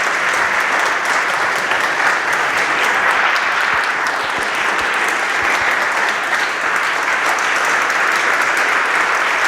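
Congregation applauding steadily, a dense even clatter of many hands clapping.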